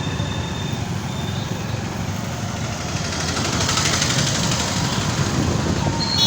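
Motorcycle running on the move through town traffic: a steady low engine and road rumble, with a louder rushing hiss about three to four seconds in.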